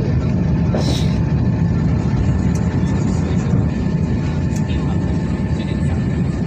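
Steady, loud, deep rumble of airflow and rolling noise at an Airbus A350's nose landing gear, with a brief hiss about a second in.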